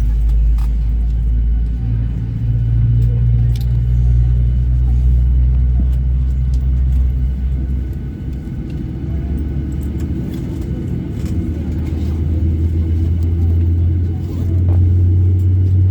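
Loud, steady low rumble inside a Boeing 737-800's passenger cabin before takeoff, its low hum shifting level a few times, with a few faint clicks.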